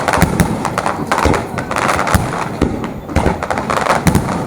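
Fireworks bursting in quick, irregular succession: many sharp bangs and crackles, several a second, overlapping one another.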